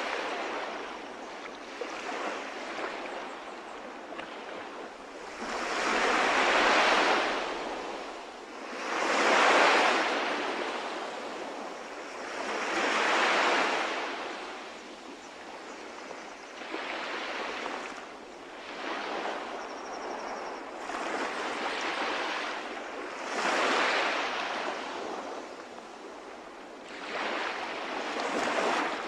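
Calm sea waves breaking and washing in, each wave a surge of surf that rises and fades every three to four seconds.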